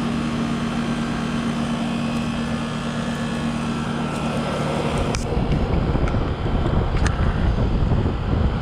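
A 2007 Trane 5-ton heat pump outdoor unit running, its reciprocating compressor and condenser fan giving a steady hum; the owner takes it to be in cooling mode. About five seconds in, a rough low rumble covers the hum, with a couple of short clicks.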